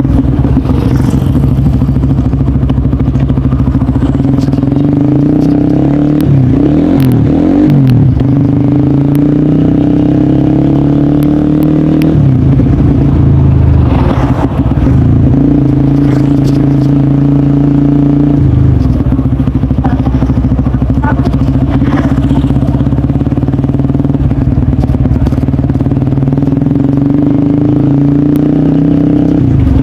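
Honda CBR150R's single-cylinder engine running loud through a DST aftermarket exhaust, holding steady revs with brief dips and changes in pitch a few times.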